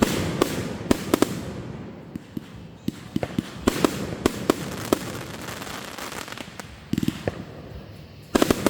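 Fireworks going off: a string of sharp bangs and crackles, with a rapid cluster of bangs near the end.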